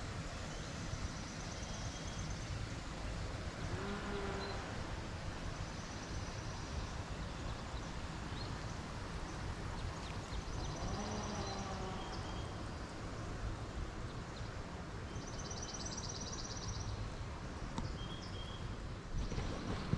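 Small birds sing short, high, rapid trills, repeated four or five times, over a steady background hiss. A few knocks come near the end.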